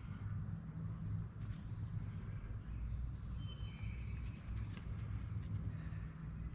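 Outdoor evening ambience: a steady high-pitched drone of crickets and other insects, over a low rumble. A couple of brief chirps come about halfway through.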